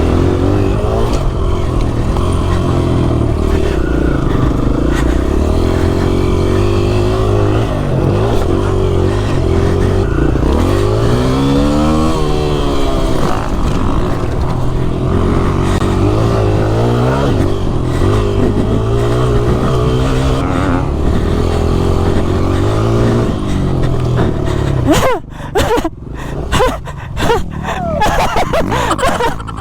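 Motocross dirt bike engine running under load and revving on the track, its pitch rising and falling with throttle and gear changes, with one long rising rev about halfway through. About 25 s in the steady engine sound drops away, leaving uneven bursts and knocks.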